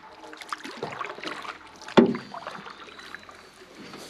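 Jon boat handling noises: scattered small knocks and clatter in the hull, with one sharp, loud knock about two seconds in, as the boat is fended off with a paddle.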